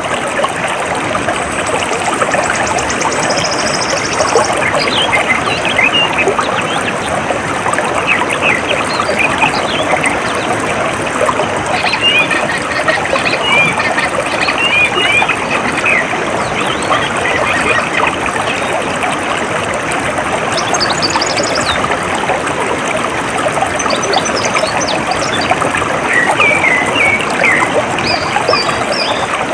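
Water trickling and flowing steadily, with scattered short bird chirps over it. A high, rapid trill sounds for the first few seconds.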